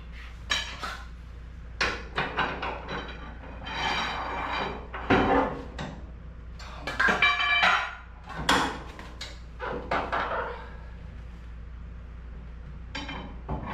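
Metal tools and parts clanking and knocking irregularly, a dozen or so strikes, some ringing briefly like struck steel.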